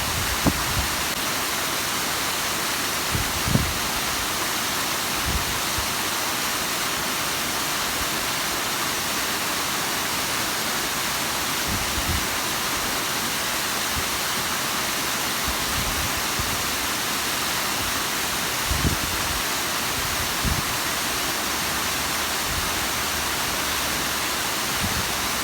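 Bigăr waterfall, water spilling over moss-covered rock, making a steady, even rush. A few brief low thumps come now and then.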